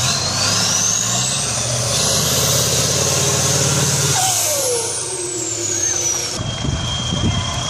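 Competition trial truck engine revving hard under load, with a high whistle that climbs over the first couple of seconds and slowly winds back down. The sound changes abruptly about six seconds in.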